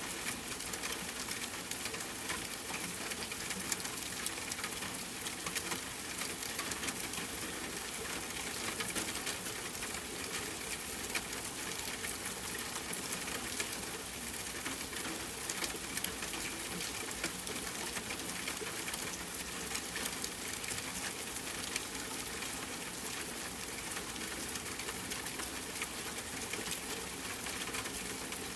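Steady rain falling, a dense patter of drops with fine crackling ticks throughout.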